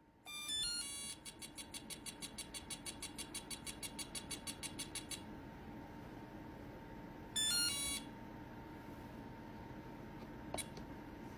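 Electronic-sounding beeps: a quick run of stepped high tones, then a rapid even beeping of about eight beeps a second for some four seconds. A second short run of stepped tones follows about seven seconds in, and two sharp clicks come near the end.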